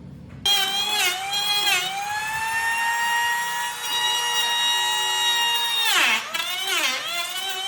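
Electric power tool motor starting with a sudden high whine, running at a steady pitch, then sagging sharply in pitch several times as the tool bites into the wood.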